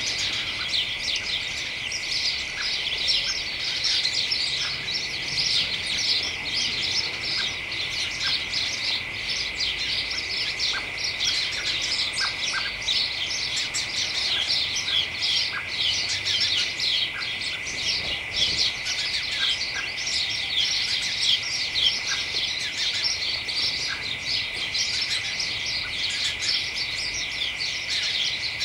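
A flock of house sparrows chattering in a hedge: a dense, unbroken stream of overlapping chirps, over a constant high-pitched whine.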